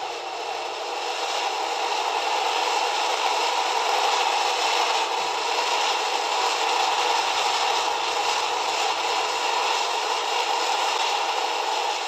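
HO-scale model train running on its track: a steady rattling whir of wheels and motor that swells over the first two seconds, then holds.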